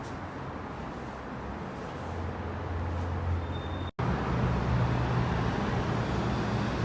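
Steady low rumble of a moving vehicle, with a deep hum underneath; it breaks off at a sudden cut about four seconds in and comes back louder.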